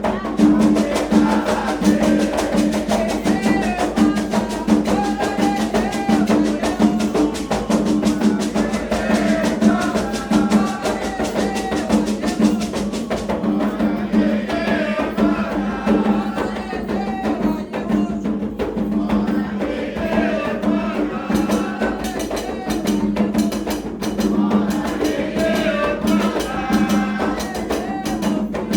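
Candomblé sacred song: voices singing a cantiga to Oxum over hand drums and a fast, steady percussion beat.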